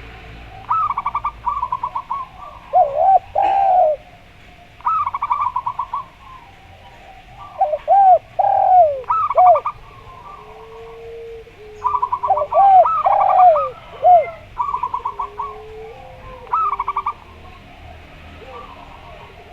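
Zebra dove (perkutut) and spotted dove (derkuku) calling together. There are repeated bursts of rapid stuttering coos, arched coo notes between them, and now and then a lower, drawn-out coo.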